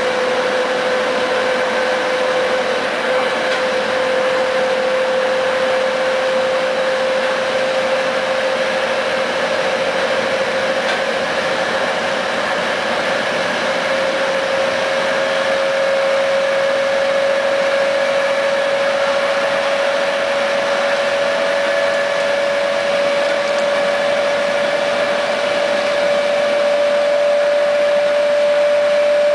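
A train running at speed, heard from inside a passenger coach: steady running noise of wheels and air, with a strong whine that rises slowly in pitch and a fainter higher tone above it.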